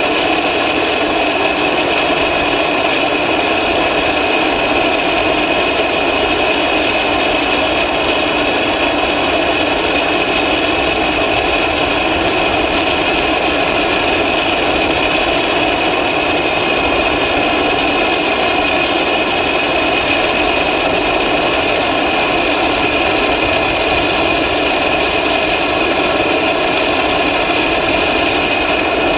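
Airbus A400M's four turboprop engines running steadily, a constant loud drone with a high, even whine over it.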